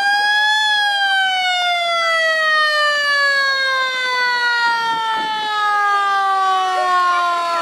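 A siren-like wail: one loud pitched tone that tops out just after the start, then slides slowly and steadily down in pitch for several seconds, like a siren winding down.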